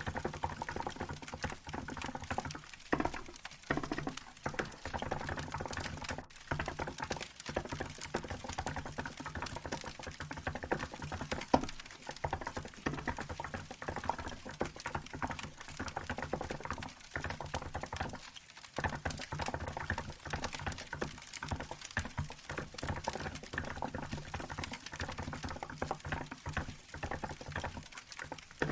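Fast typing on a Hansung GK868B mechanical keyboard with milk-white keycaps, keys clacking in steady runs broken by a few brief pauses, over a crackling wood-fire sound.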